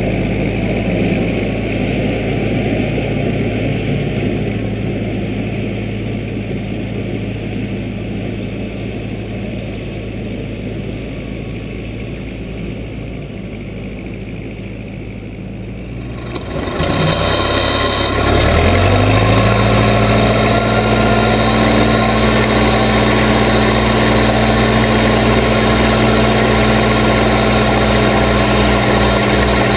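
Case 580B backhoe engine running steadily, then revving up a little past halfway and holding at a higher, louder speed.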